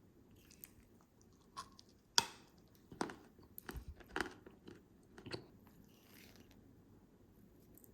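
Close-up chewing and biting of Japanese DIY candy. There are a few crisp crunches, the loudest a sharp crack about two seconds in, then a run of chewing crunches that stops after about five and a half seconds.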